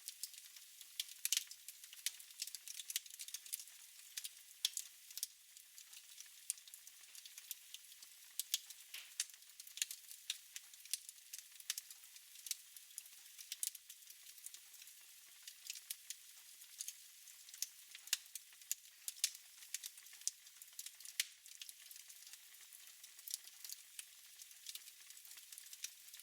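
Fire burning in a fireplace, crackling with many sharp, irregular pops over a faint steady hiss.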